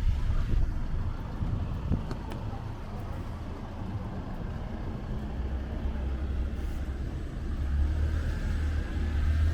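City street traffic: motor vehicles running and passing with a low engine rumble, growing louder near the end as one comes close.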